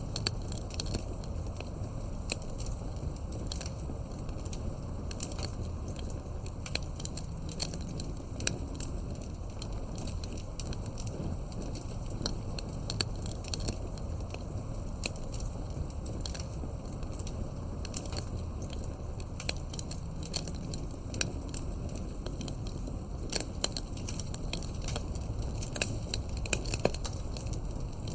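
Wood campfire burning, with frequent sharp crackles and snaps scattered over a low, steady rumble of the flames.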